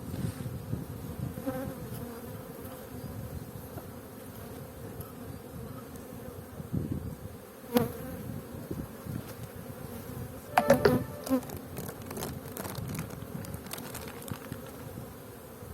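Honeybees buzzing in a steady drone over an opened hive. A single sharp knock comes about 8 seconds in, and a quick cluster of knocks follows a couple of seconds later.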